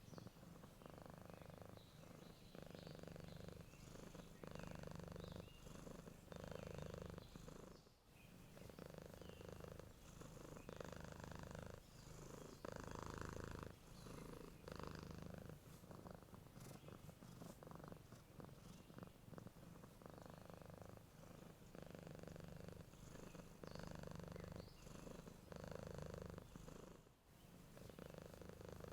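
Domestic cat purring softly and steadily, the purr swelling and fading with each breath about once a second.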